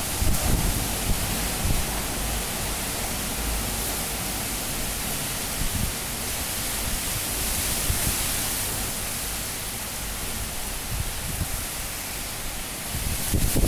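High wind of a super cyclone blowing steadily as a full, even rushing hiss, with irregular gusts buffeting low on the microphone. The wind swells louder near the end.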